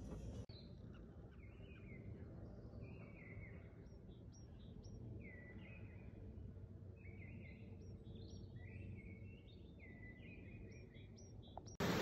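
Faint birdsong: runs of short repeated chirps and calls from one or a few birds over low background noise. Just before the end, loud rushing river water cuts in.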